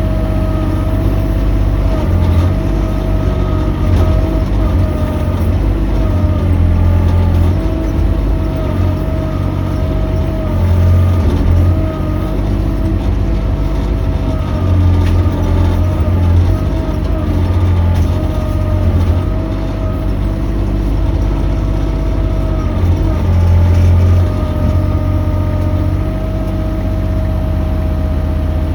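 Mini excavator running and working, its engine note swelling and easing every few seconds as the load comes and goes, over a steady high whine.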